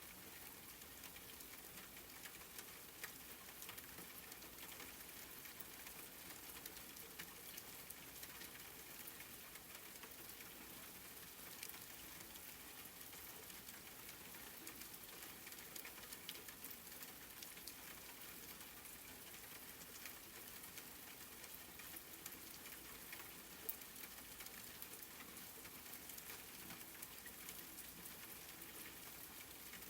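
Soft, steady rain: a dense hiss of fine drops pattering, with a couple of louder single drips standing out.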